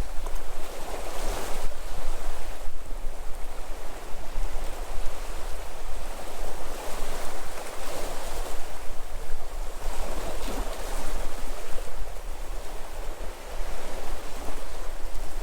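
Sea waves breaking and washing on the shore, the surf swelling and easing every few seconds, with a low rumble of wind on the microphone.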